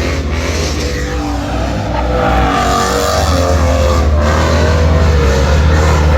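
Car engine revved hard, its pitch rising and falling again and again, growing louder about two seconds in.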